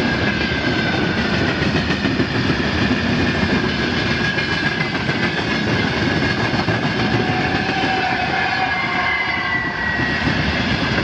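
Freight train wagons rolling past, a loud steady rumble and rattle of wheels on rail with thin high squealing tones from the wheels that slowly slide in pitch.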